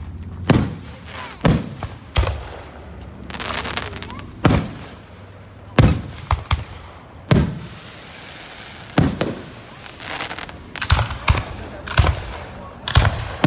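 Aerial fireworks shells bursting in an irregular series of sharp booms, a dozen or more, coming closer together near the end. There is a stretch of crackling about three seconds in.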